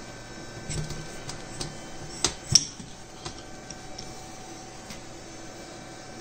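Scattered light mechanical clicks and taps, two sharper ones about two and a half seconds in, over a faint steady hum.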